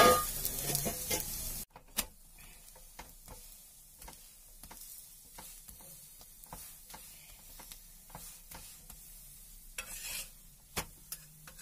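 Radish paratha shallow-frying in mustard oil on an iron tawa, sizzling, while a steel spatula presses and scrapes it, with scattered sharp clicks against the pan. The sound is loud for the first second and a half or so, then drops suddenly to a faint sizzle.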